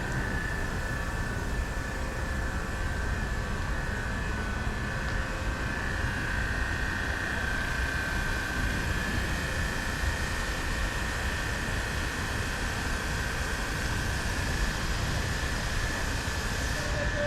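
Steady mechanical drone with a constant high-pitched whine over a low rumble, unchanging throughout.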